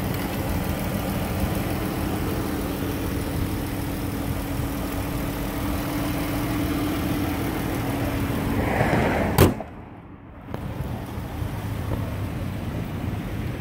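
2013 Dodge Grand Caravan's 3.6-litre Pentastar V6 idling with a steady, quiet hum. About nine seconds in there is a single sharp bang as the hood is slammed shut, and the sound dips briefly before the idle carries on.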